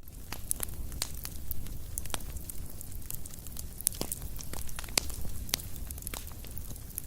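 Wood fire crackling: irregular sharp pops and snaps, a few louder ones about four and five seconds in, over a low steady rumble.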